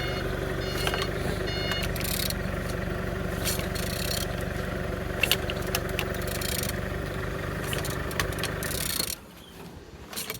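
Car engine (code 350A1.000) idling steadily and evenly, then switched off suddenly about nine seconds in. It runs smoothly, as in a check that a used engine is sound.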